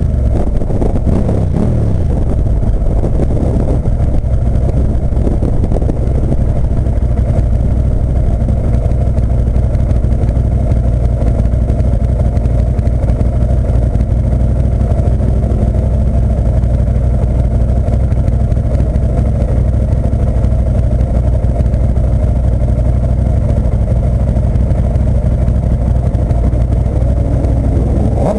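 Ducati 998 L-twin engine running at a steady idle, heard onboard, with a brief change in engine speed in the first two seconds.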